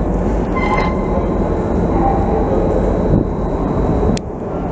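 Docklands Light Railway train approaching through the tunnel into an underground platform: a steady low rumble, with a few brief high-pitched tones about a second in and a sharp click near the end.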